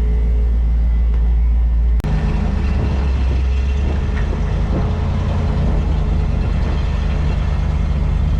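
Truck engine idling steadily, a low continuous rumble, with an abrupt break about two seconds in.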